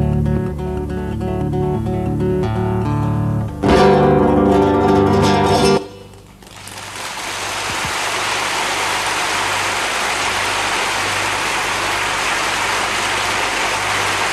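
Fingerpicked acoustic guitar playing a song's closing bars, with a louder final chord about three and a half seconds in. The guitar cuts off abruptly near six seconds, and a steady hiss-like noise with no pitch fades up and holds.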